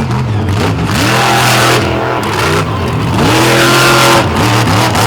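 Monster truck engine revving hard, its pitch climbing and dropping several times as the throttle is blipped between moves.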